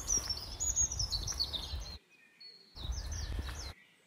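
Small songbird chirping in quick runs of short notes that step down in pitch, over a low rumble. The sound cuts out abruptly about two seconds in, returns for about a second, then stops short near the end.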